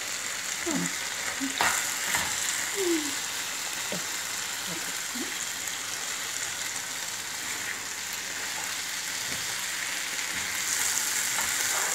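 Spiced chicken pieces sizzling in a hot wok while a metal spoon stirs them, with a steady frying hiss and scattered short scrapes and knocks of the spoon against the pan.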